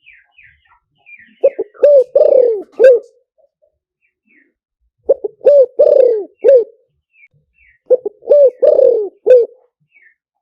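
Spotted dove cooing, the decoy call used to lure wild doves: three phrases a couple of seconds apart, each of about five coos with one longer, drawn-out coo in the middle. Faint small-bird chirps sound between the phrases.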